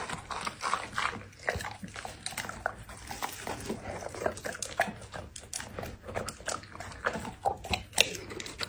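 Labrador chewing and crunching food, with irregular crunches several times a second.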